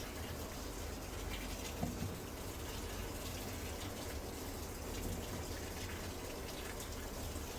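Water running steadily into the drum of a Midea Wave-Agitator top-load washing machine as it fills, with a low hum underneath.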